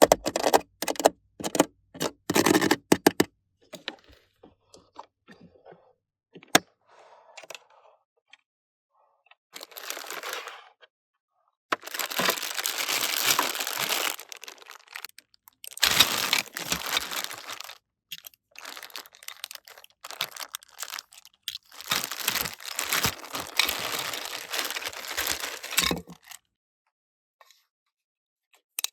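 Plastic toy packaging being handled: a few sharp clicks at first, then several stretches of crinkling and tearing of plastic film, the longest a few seconds each.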